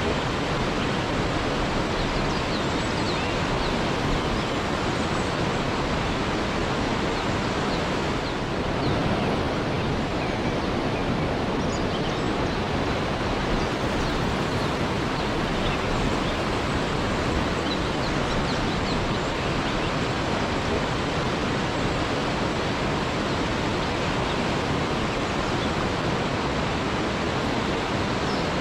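Waterfall rushing steadily, with faint short high chirps scattered through it.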